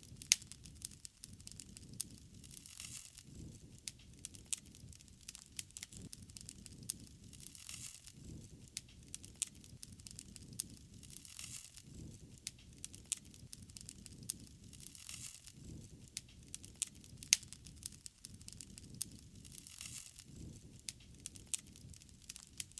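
Wood fire burning: irregular sharp crackles and pops over a low, steady rumble of flames.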